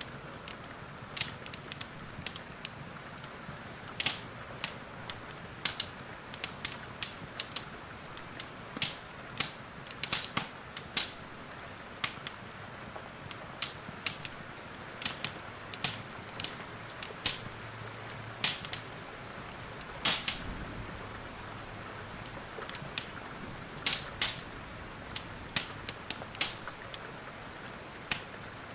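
Wood fire in a fireplace crackling, with irregular sharp pops and snaps over a steady soft hiss of rain.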